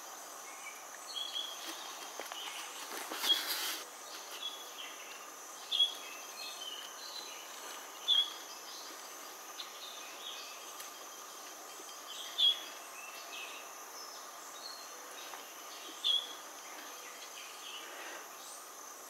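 Outdoor ambience: a bird giving short, high chirps every few seconds over a steady background drone of insects.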